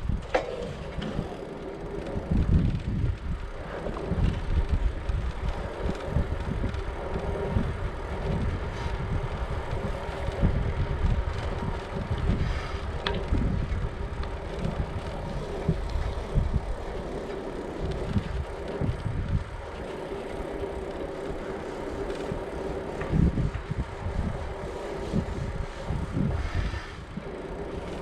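Riding a hybrid bicycle: uneven wind buffeting the microphone over the rolling noise of the bike, with a faint steady hum throughout.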